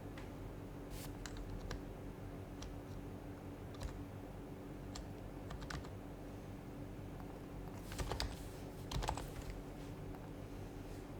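Typing on an HHKB Professional HYBRID Type-S, whose silenced Topre capacitive switches give soft, muted keystrokes. The keystrokes are scattered and unhurried, then come as two quick flurries about eight and nine seconds in.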